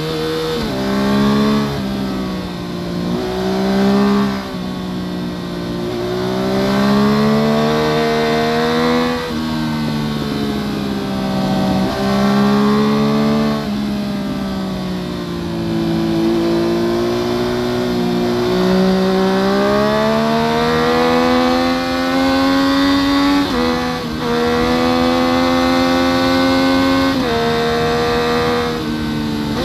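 2014 Yamaha FZ-09's three-cylinder engine through an Akrapovic full-system exhaust, heard from under the seat while riding. It revs up through the gears, the pitch climbing and then dropping at each shift, with quick shifts in the first half and a long, slower climb after a dip in the middle.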